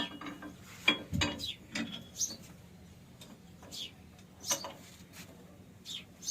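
Scattered light metallic clicks and knocks of metal parts being handled, a dozen or so at uneven spacing, the loudest about a second in.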